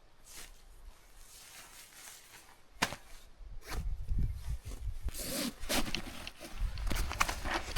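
Rustling and scraping handling noises with low bumps, after a single sharp click about three seconds in.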